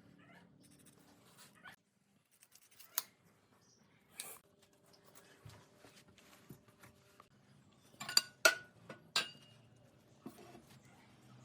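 Scattered sharp clicks and knocks, the loudest a group of three about eight to nine seconds in.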